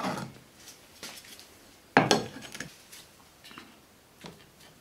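Clinks and knocks of metal tools and plywood panels being handled on a table saw's metal top during assembly. There is one sharp knock at the start, the loudest about two seconds in, and a few lighter taps between and after.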